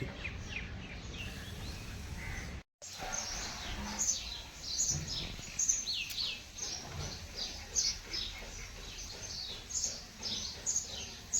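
Small birds chirping outdoors, a steady run of quick, high, descending chirps several times a second, with a brief cut to silence about two and a half seconds in.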